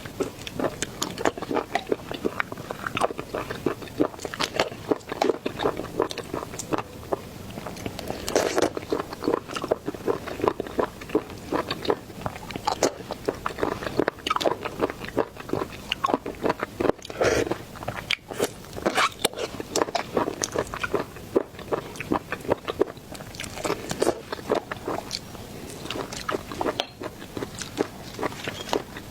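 A person chewing and biting seafood close to the microphone: a dense, unbroken run of wet clicks, smacks and crunches.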